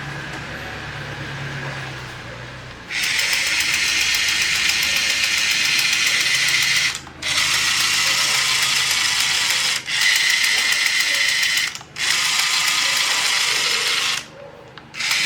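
Small electric motor and gears whirring loudly with a fine rapid clatter. It starts about three seconds in and runs in several spells of two to four seconds, with short stops between. Before it starts there is a low steady hum.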